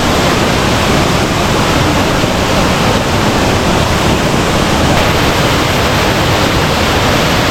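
Loud, steady rush of a waterfall and fast-flowing river close by: an even wash of falling and churning water with no breaks.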